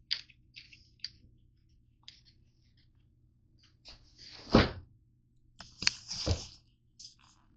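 Objects being handled: scattered light clicks and knocks, with a heavier thud about four and a half seconds in and a short clattering scrape about six seconds in.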